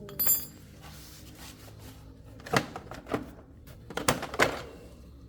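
Small metal parts or tools being handled. A sharp metallic clink with a brief high ring comes first, then four more knocks, the last two close together.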